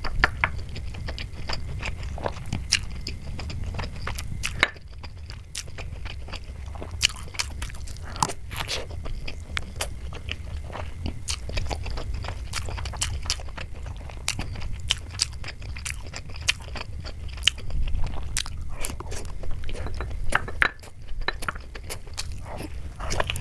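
Close-miked ASMR eating of soft Indian sweets: chewing with many sharp clicks, over a steady low hum.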